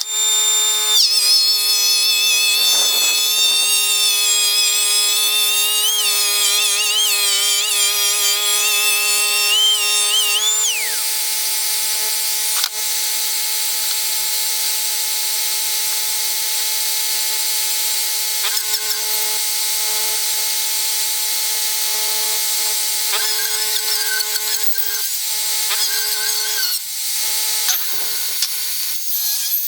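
Electric woodworking power tool running and cutting rough-sawn lumber; its high whine wavers up and down under load for about the first ten seconds, then it runs steadily.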